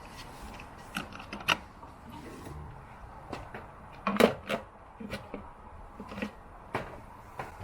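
Irregular light clicks and knocks at uneven intervals, with a louder cluster about four seconds in.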